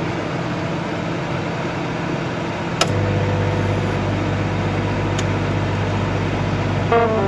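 Microwave oven running with a steady hum. About three seconds in a click sounds and the hum drops to a lower, louder drone with a faint steady tone over it, and there is another faint click a little later.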